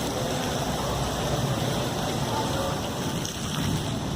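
Steady rushing noise of rain and wind on a phone's microphone during a thunderstorm, with no clear thunderclap.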